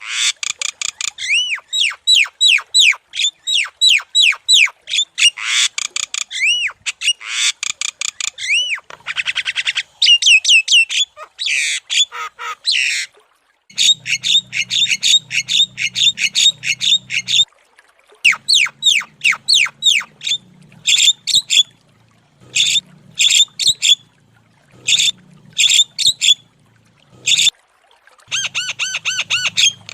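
Javan myna (jalak kebo) calling loudly and energetically: rapid runs of repeated high, arched whistled notes and harsh squawky chatter, in bursts broken by short pauses. About halfway through, a low hum joins underneath the calls.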